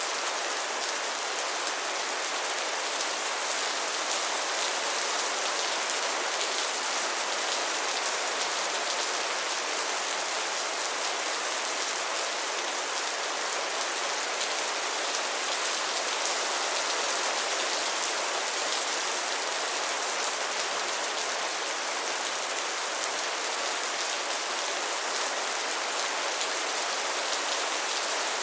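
Steady rain falling on a surface: a dense, even patter of many drops with no let-up.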